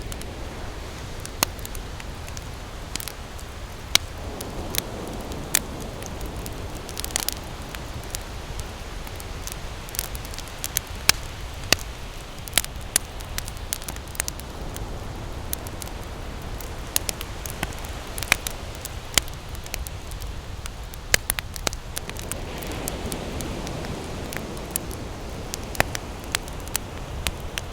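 Wood campfire crackling, with frequent sharp pops, over a steady low rush of ocean waves. The wash of the waves swells about five seconds in and again near the end.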